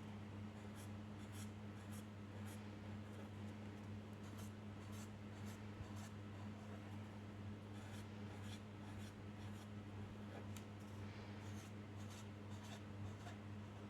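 A drawing tool scratching on paper in many short, quick strokes, over a faint steady electrical hum.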